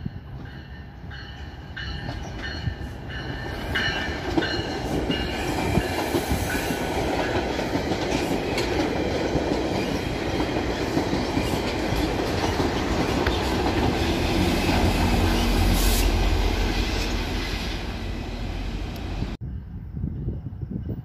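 A train passing close by, its wheels clicking over rail joints and squealing. The rumble builds to its loudest about three quarters of the way through, then cuts off suddenly near the end.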